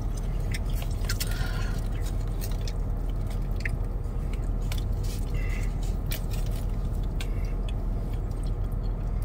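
Chewing and biting sounds from people eating a vegan cheesesteak sandwich wrapped in aluminium foil, with small mouth clicks and foil crinkles scattered through, over a steady low hum.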